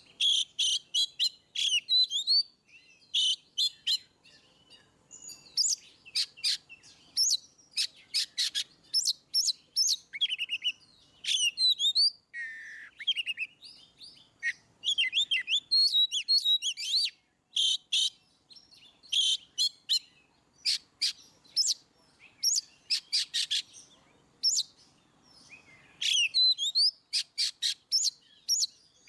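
Oriental magpie-robin (kacer) in full song: loud, varied phrases of clear whistled glides and fast runs of repeated notes, separated by short pauses.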